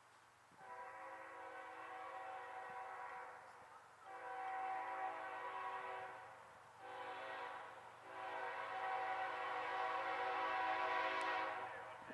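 Diesel freight locomotive's multi-chime air horn sounding the grade-crossing signal: two long blasts, one short, then a final long one, growing louder as they go.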